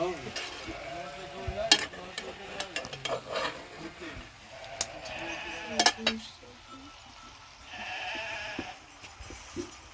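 Sheep bleating in short calls, over a rustling, stirring noise with several sharp clicks and knocks.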